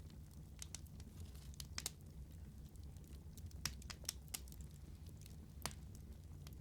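Wood fire crackling in a fireplace: irregular sharp pops and snaps over a low steady rumble of the flames, with a few louder pops about two, four and five and a half seconds in.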